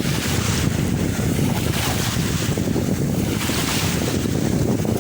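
Wind buffeting the microphone over sea surf washing onto the beach, the hiss of the water swelling and easing every second or two.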